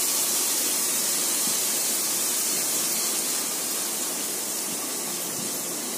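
Onion and tomato masala frying in a pan on the stove: a steady high sizzling hiss that slowly fades.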